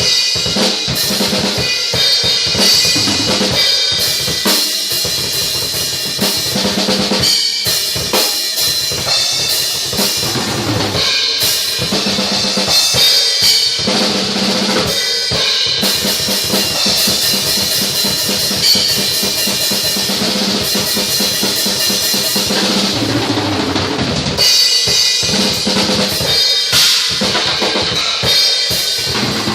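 A ten-piece Pearl Export drum kit played continuously, with bass drum, snare and cymbals, in a dense, steady stream of strokes.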